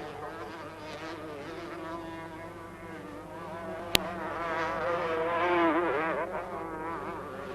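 Several 250cc two-stroke motocross bikes racing, their buzzing engine notes rising and falling as they rev, swelling louder past the middle and then fading. A single sharp click about four seconds in.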